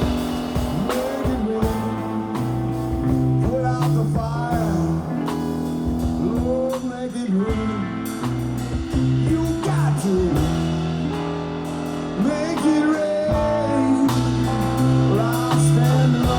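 Live blues-rock band playing an instrumental break: lead guitar bending notes over a held bass line and drums.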